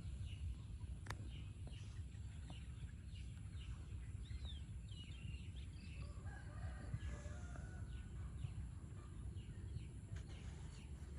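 A rooster crowing faintly about six seconds in, one call of about two seconds, with a few short bird chirps just before it and a low steady rumble underneath.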